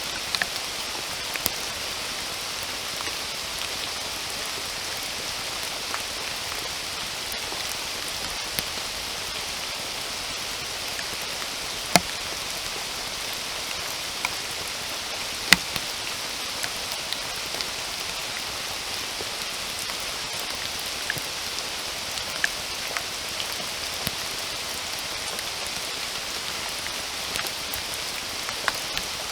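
Steady rain falling, an even hiss with scattered louder individual drops; two sharp, close drip hits stand out, about twelve and fifteen seconds in.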